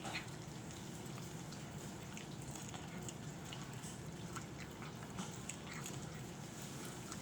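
A cat eating, with faint scattered chewing and crunching clicks over a steady background hiss.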